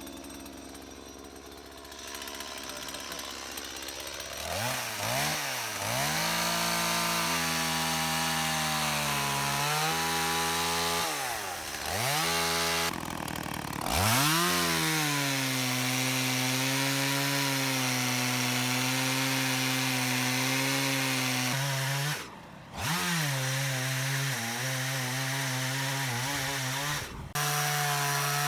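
Chainsaw cutting wood: the engine revs up and down several times in the first half, then holds steady at full throttle. Near the end its pitch drops briefly twice.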